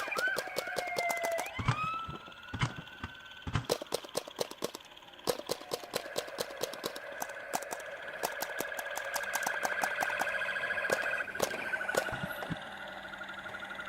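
A siren sounds, gliding up and down in the first two seconds, then settling into a steady warbling wail. Sharp clicks come over it in quick runs.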